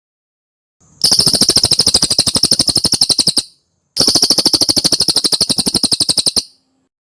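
Cililin bird singing two rapid trills of fast, evenly repeated sharp notes, each about two and a half seconds long, with a short gap of about half a second between them.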